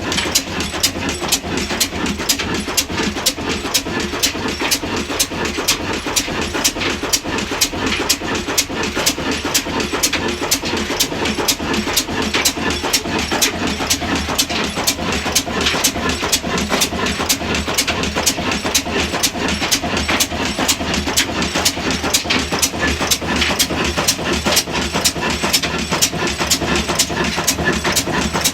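Large-flywheel indigenous diesel engine running steadily, its exhaust beating evenly at about three beats a second.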